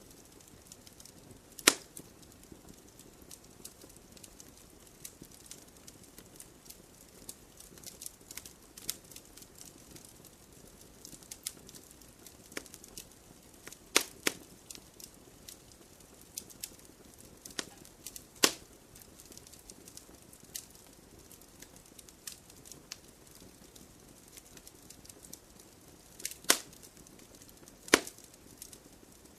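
Wood fire in a stone fire pit crackling, with a soft bed of hiss under irregular small crackles and a handful of sharper, louder pops scattered through.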